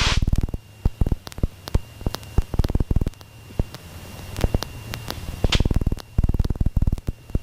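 Cockpit intercom audio feed of a Cessna 150/152 crackling with irregular sharp clicks and several short buzzing bursts, over a faint steady tone.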